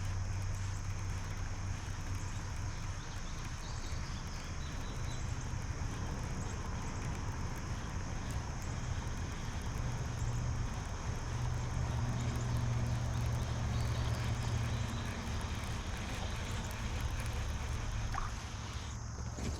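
Electric trolling motor running, a low hum that swells and eases as it is throttled, with a steady high whine above it.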